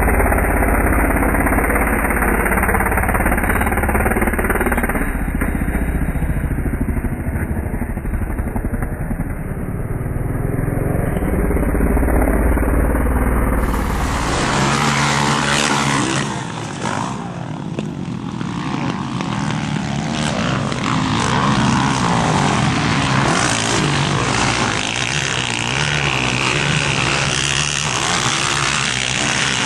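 Motocross dirt bikes racing on the track, engines revving up and easing off as they ride past. The sound changes abruptly about halfway through, losing its deep rumble.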